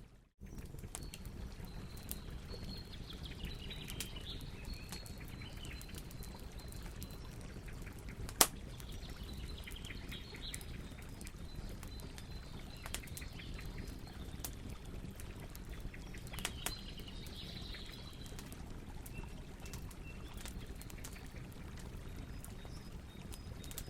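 Campfire crackling, with many small sharp pops over a steady low hiss of burning wood and one loud pop about eight seconds in. The sound drops out briefly right at the start.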